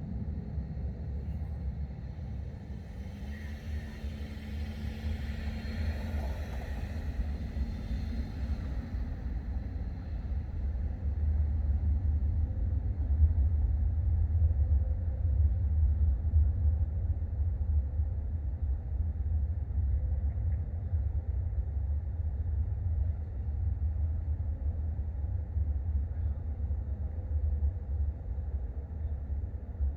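Thunder rumbling low and long, swelling about ten seconds in and rolling on steadily. Earlier, a vehicle passes with a hiss that fades by about nine seconds in.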